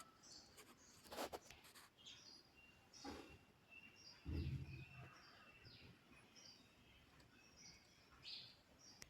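Near silence with faint high bird chirps in the background, a few soft clicks about a second in, and a low thump near the middle.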